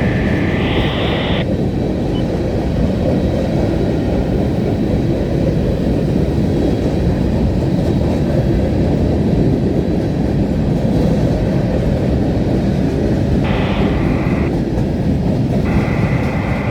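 Norfolk Southern freight train rolling past at close range: a steady, loud rumble of wheels on rail. Brief high-pitched squeals cut in near the start and twice near the end.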